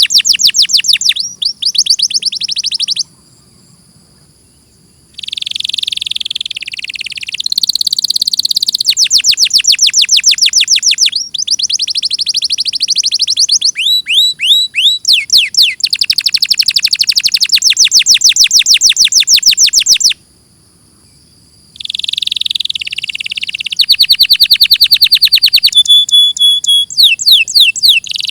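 Domestic canary singing: long phrases of fast, rapidly repeated high trill notes that change pitch and speed from phrase to phrase, broken twice by short pauses.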